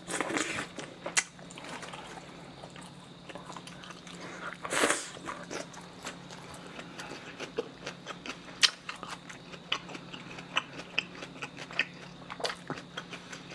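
Close-miked chewing and lip-smacking of a mouthful of spicy cold noodles and sliced pig's trotters: a run of short wet clicks and smacks, with one louder rush of sound about five seconds in.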